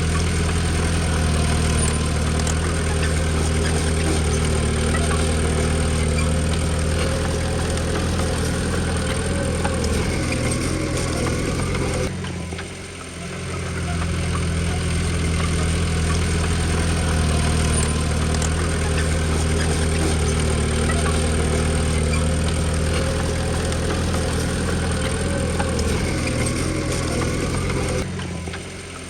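Komatsu D20P bulldozer's diesel engine running steadily, with the sound briefly dropping away about halfway through and again near the end.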